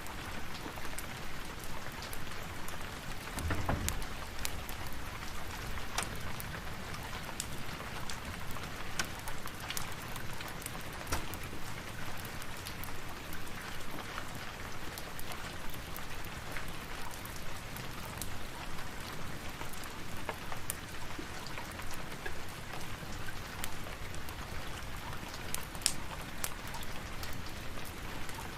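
Steady rain falling, with scattered sharp crackles or drips throughout and a brief low rumble about three and a half seconds in.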